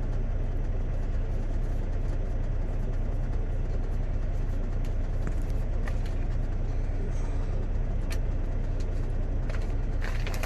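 Steady low rumble of an idling truck engine heard from inside the cab, with a few light clicks near the end.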